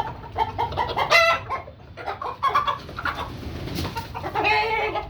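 Chickens clucking: a run of short, repeated calls, with a longer drawn-out call near the end.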